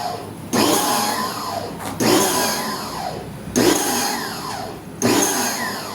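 A small motor driven in short repeated bursts, about one every second and a half. Each burst starts suddenly, then falls in pitch and fades.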